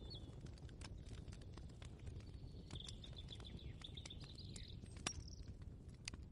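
Kitchen ambience: a steady low background rumble, with a bird twittering for about two seconds near the middle and a few sharp clicks, one a little after a second in and a louder one near the five-second mark.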